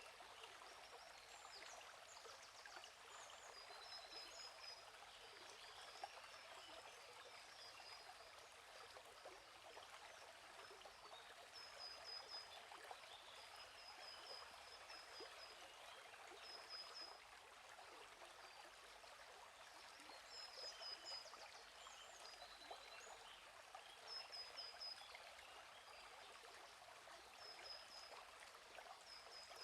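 Faint steady flowing-stream water, with small birds chirping in short quick runs of high notes every few seconds.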